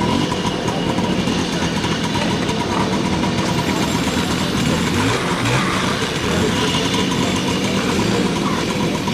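Small two-stroke moped engine running steadily at a low idle-like pace.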